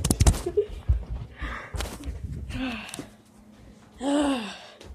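A few knocks of a phone being handled, then breathy gasps and a short vocal sound that falls in pitch near the end.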